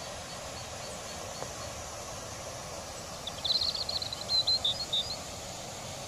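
A bird sings a quick run of high chirping notes over a steady rushing outdoor noise, from about three to five seconds in, with a few fainter high notes near the start.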